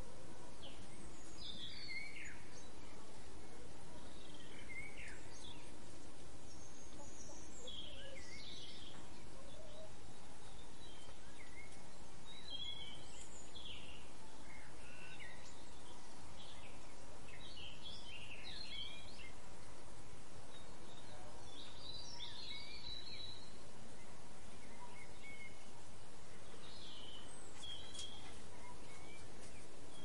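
Wild birds chirping, with short calls scattered irregularly throughout, over steady outdoor background noise.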